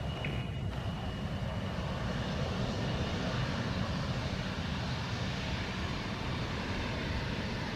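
Aircraft engines running steadily, a continuous rushing noise with no change in pitch or level.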